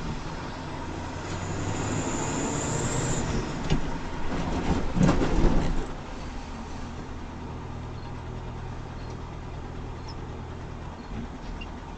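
Vehicle running with engine hum and road noise, as picked up by a dashcam. It grows louder and rougher for a couple of seconds about four to five seconds in, with a few knocks, then drops back to a steadier, quieter run.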